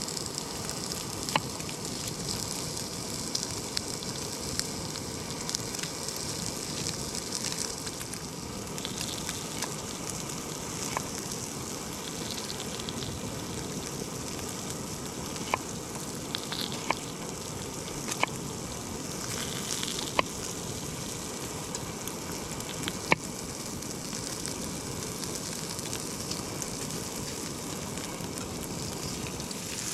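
Wood campfire crackling steadily, with sharp pops now and then.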